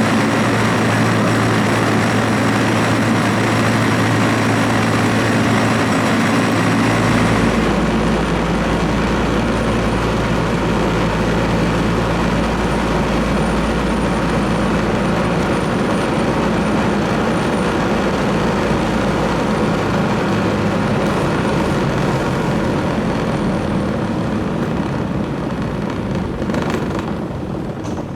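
Tram running with a steady mechanical drone and rolling noise. About seven seconds in, a steady high whine stops and a deep low hum takes over.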